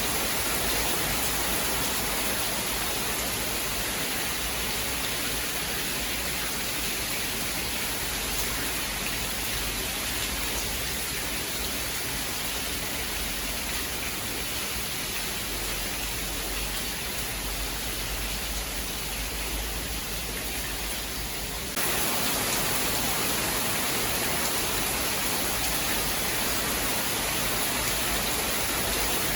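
Steady heavy rain, an even hiss with no distinct drops or thunderclaps; about three quarters of the way through it abruptly gets a little louder and brighter, as at a splice in a looped recording.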